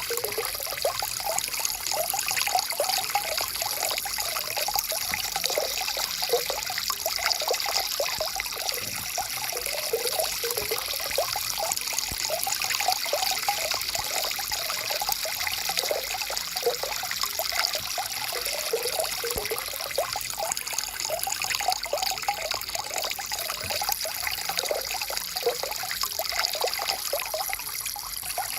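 Small stream or brook trickling and gurgling steadily over stones.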